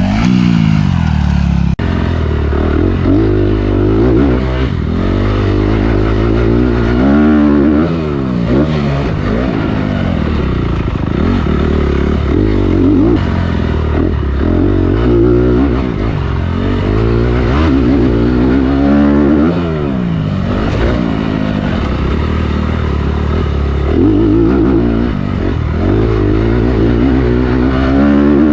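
Motocross dirt bike engine being ridden hard, its pitch climbing as the throttle opens and dropping back again and again.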